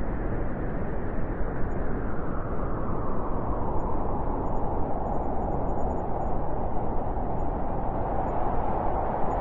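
Blizzard wind blowing steadily, a dense rushing noise with a howling tone in the middle that grows stronger a few seconds in.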